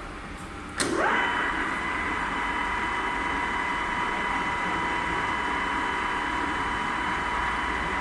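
2005 Bulgarian C11 MSM engine lathe starting up: after a click or two, a whine rises sharply within a fraction of a second, then the spindle runs on steadily with an even gear whine.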